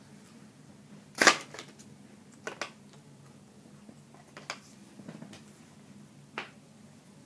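Handling and eating a packaged cracker-and-chicken lunch kit: a handful of short, sharp crinkles and crunches, the loudest about a second in, over a low room hum.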